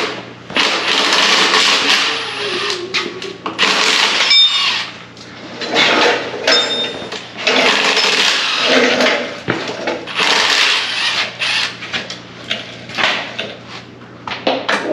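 Repeated harsh mechanical rasping in stretches of one to two seconds with short pauses between them, about six in all, with a few brief high squeaks about four seconds in, over a steady low hum.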